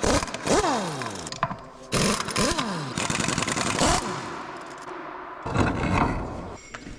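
A handheld power tool driven in three bursts, its pitch falling after each of the first two as the motor spins down, while a stuck hub is worked off a pump motor.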